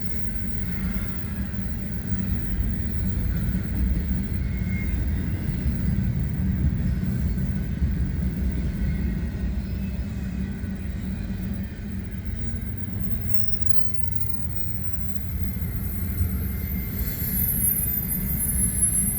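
Double-stack intermodal freight cars rolling past, a steady low rumble of wheels on rail. A thin high-pitched whine comes in near the end.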